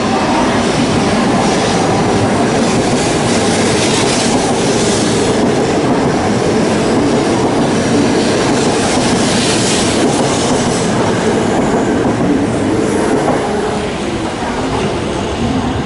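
Shinkansen train moving along the platform: a loud steady rumble of wheels on rail, with brief high-pitched hissing squeals about four and ten seconds in. It eases off somewhat near the end.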